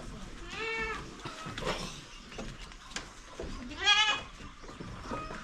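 Goat kids bleating: a few wavering bleats, the loudest about four seconds in.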